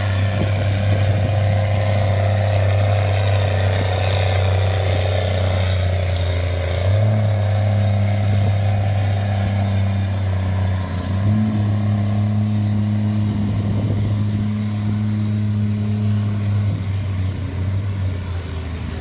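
Pulling tractor's diesel engine running flat out under load while dragging the weight sled. Its steady low note steps up in pitch twice, about seven and eleven seconds in, then drops away near the end.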